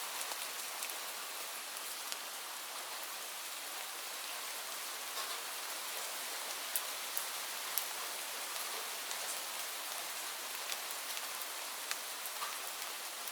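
Steady rain falling, an even hiss with scattered sharp drop ticks, a few of them louder.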